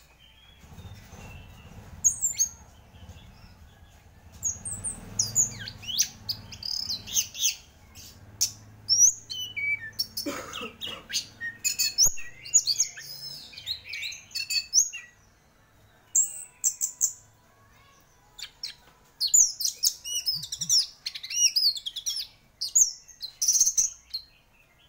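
Orange-headed thrush in full song: quick, varied runs of high whistles and chirps, broken by short pauses.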